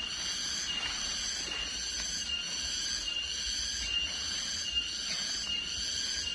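Insects calling in a steady, high-pitched chorus that pulses a little more than once a second, with a short high note on each pulse.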